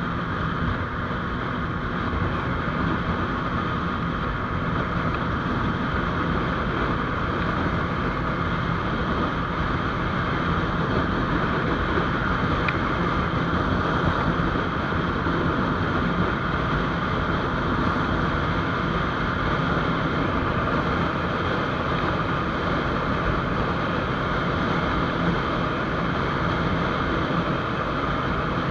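GPX GR200R motorcycle riding at a steady speed: the engine running evenly under wind rushing over the microphone.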